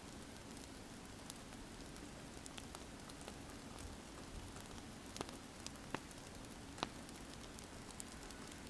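Wood fire crackling quietly: a soft steady hiss with scattered sharp pops, a few louder ones a little past the middle.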